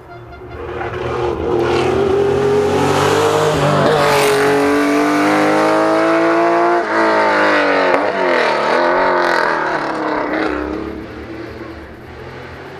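Rally car engine running hard as the car comes past: the engine note climbs, breaks at a gear change about four seconds in, climbs again, drops sharply about seven seconds in, dips and picks up again, then fades away near the end.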